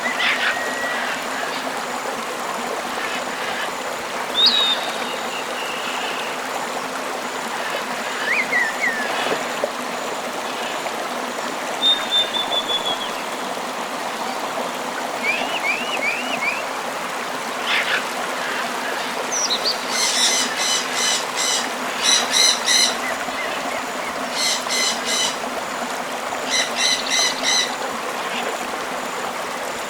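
Steady rush of a flowing river, with scattered bird chirps, whistles and a short falling trill over it. Past halfway, four short bursts of a rapid, rasping pulsed call come about two seconds apart.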